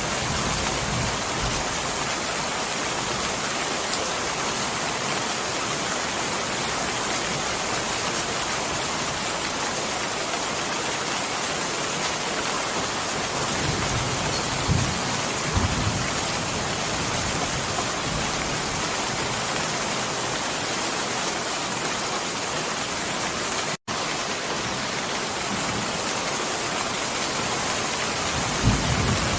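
Steady, dense rainfall, with a few soft low thumps near the middle and near the end. The sound cuts out for an instant about two-thirds of the way through.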